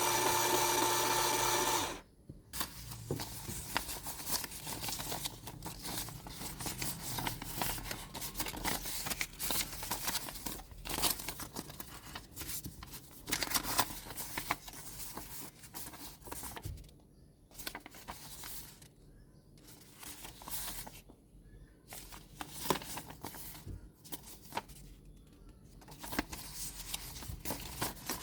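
Background music for about two seconds, then toy packaging being handled and opened: irregular crinkling and tearing with light clicks and short pauses.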